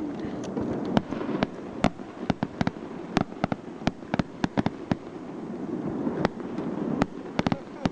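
Fireworks going off, many sharp pops and cracks in quick, irregular succession over a steady low rumble.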